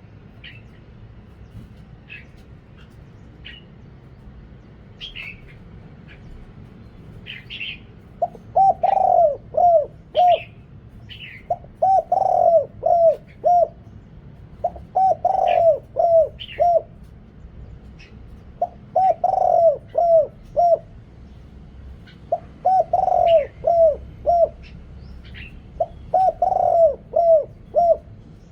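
Deep-voiced spotted dove cooing in repeated phrases of several coos, beginning about eight seconds in and coming back about every three and a half seconds. Short high chirps of a small bird run throughout.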